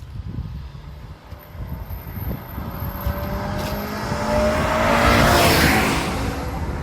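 Honda Accord Euro R accelerating past through its stock single-exit muffler with the baffle removed: the exhaust note rises in pitch and grows louder, peaks about two-thirds of the way in, then eases off.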